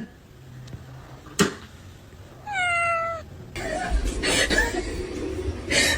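A single drawn-out high-pitched call lasting under a second, about two and a half seconds in, falling slightly and then holding steady. A sharp click comes before it, and a stretch of rustling and handling noise follows.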